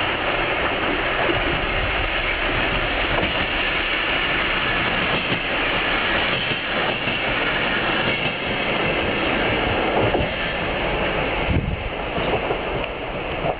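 A train running along the rails: a steady rumble and rattle of wheels on track with scattered light clicks.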